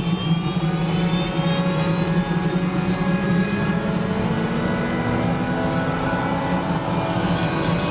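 Helicopter engine running loudly with a steady low hum and a high whine that rises steadily in pitch.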